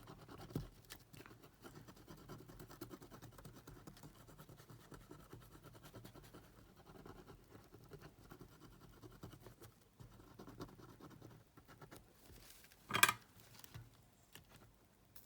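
Cotton swab scrubbing a cassette player's circuit board, a faint, continual scratching, likely cleaning residue where the old capacitors came out. A sharp click about thirteen seconds in.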